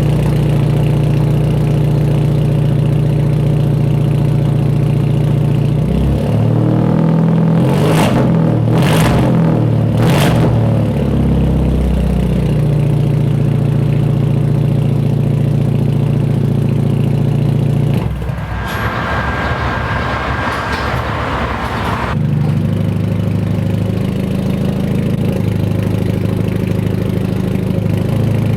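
Hyundai Genesis Coupe's turbocharged 2.0-litre four-cylinder idling through a 3-inch catless single-exit exhaust. About six seconds in, the engine note changes, with three short sharp bursts about a second apart, then it settles back to idle. A few seconds past the middle, the idle drops away under a hissier noise for about four seconds before it steadies again.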